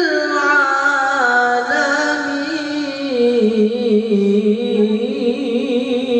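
Quran recitation (tilawah): a single voice holds a long melismatic vowel on "lil-'alamin", stepping down in pitch in ornamented turns and settling into a lower wavering note for the last couple of seconds.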